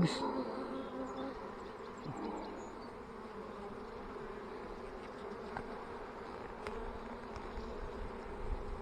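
Honeybees buzzing around an open hive: a steady hum of many bees, with a few faint ticks partway through.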